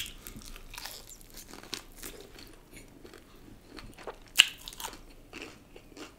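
Crispy KFC boneless fried chicken strip bitten and chewed close to the microphone. A sharp crunch of a bite comes at the start and another about four and a half seconds in, with small crunches of chewing between.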